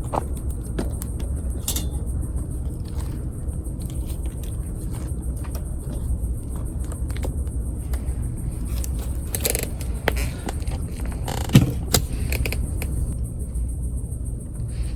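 Wood campfire crackling, with scattered sharp pops over a steady low rumble. A few louder knocks come around ten and twelve seconds in.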